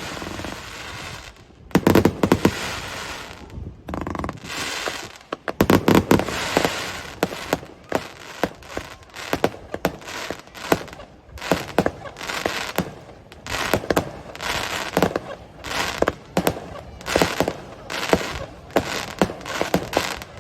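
Aerial fireworks going off: heavy booms about 2 and 6 seconds in, then rapid volleys of sharp cracks for the rest of the time.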